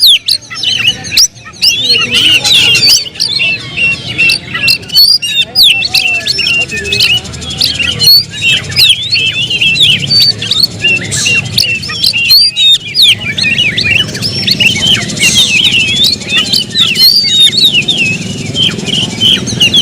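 Oriental magpie-robin (kacer) singing a fast, unbroken stream of varied high chirps and whistled notes.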